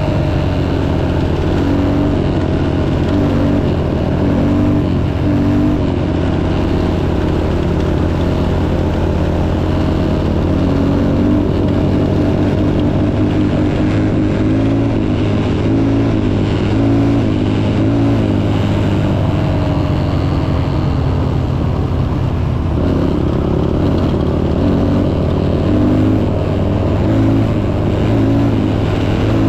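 Motocross dirt bike engine running hard, its revs rising and falling again and again.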